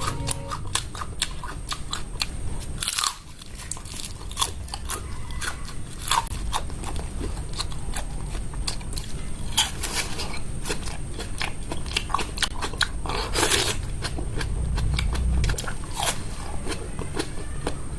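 Close-miked eating: a person biting into and chewing crunchy food, with many sharp crunches and crackles throughout.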